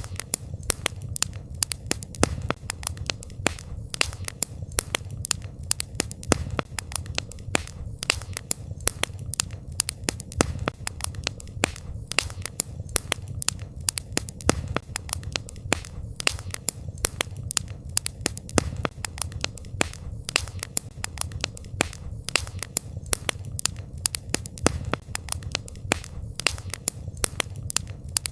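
Wood campfire crackling: frequent sharp pops and snaps, several a second, over a steady low rush of the flames.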